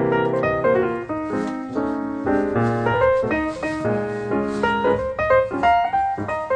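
Background piano music, a steady run of keyboard notes.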